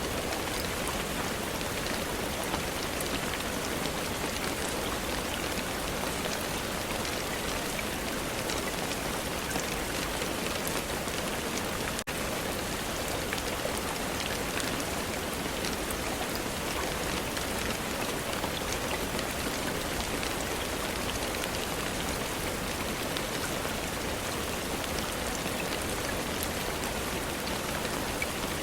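Steady rain falling on a surface: a dense, even patter of many small drops, with a split-second dropout about twelve seconds in.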